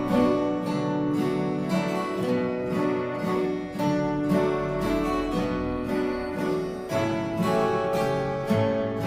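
Several acoustic guitars strumming chords together in a steady rhythm, with no singing.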